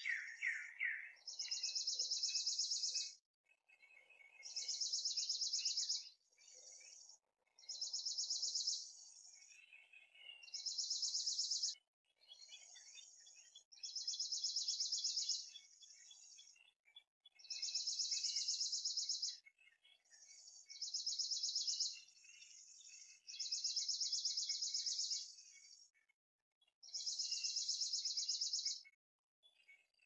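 Bird song: a high, rapid trill about two seconds long repeated every three seconds or so, with softer chirps between the trills.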